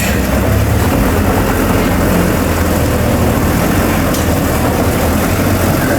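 Bulldozer's diesel engine running steadily, a loud low drone.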